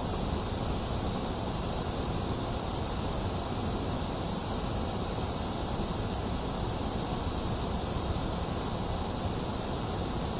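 Box fan running steadily, blended with rain, as one unbroken even hiss.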